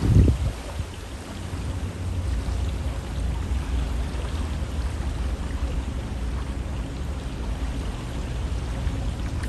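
A river flowing steadily, giving a continuous rushing hiss of water with a strong low rumble underneath. A brief low bump comes at the very start.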